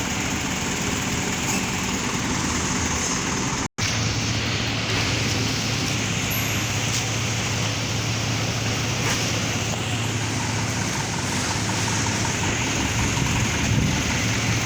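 Steady vehicle engine drone with road noise. The sound cuts out for a split second a few seconds in.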